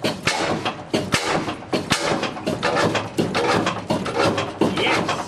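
Ruston & Hornsby 5XHR five-cylinder diesel running on its first run in decades after its air and fuel problems were sorted, with a rapid, uneven series of knocks.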